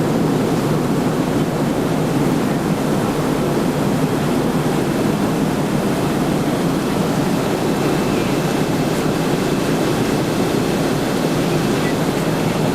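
Steady roar of jet airliner cabin noise at cruise altitude: engine and airflow noise heard from inside the passenger cabin, an even rushing with no breaks.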